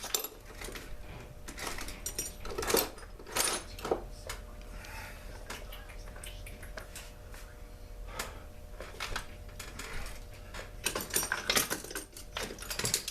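Hand tools and small metal parts of a Poulan Pro chainsaw clinking and knocking at irregular intervals as the saw is taken apart, with louder clusters of clatter a few seconds in and near the end.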